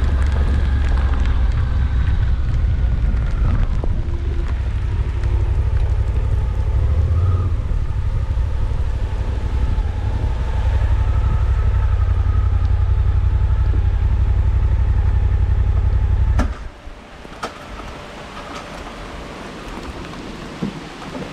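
Suzuki V-Strom 800DE parallel-twin motorcycle engine running steadily under way, with wind and road noise. About three-quarters through the engine sound stops abruptly, leaving a softer hiss with a few light ticks, like rain.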